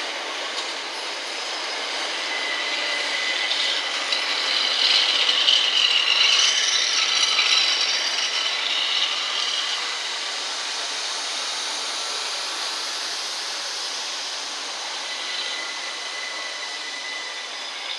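Southern Class 377 Electrostar electric multiple unit passing at speed: steady wheel-on-rail running noise with thin, high squealing tones, loudest from about four to nine seconds in and easing off as the last carriages go by.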